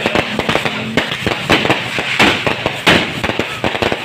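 Fireworks and firecrackers going off in a dense, unbroken string of sharp pops and bangs, several a second, as in a rapid crackling barrage.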